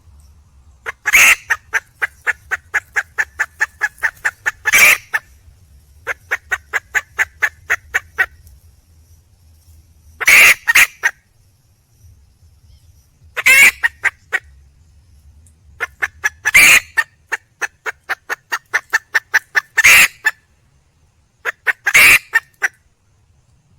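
Red junglefowl hen calling for a mate: runs of short clucks, about four a second, broken every few seconds by a louder, longer squawk.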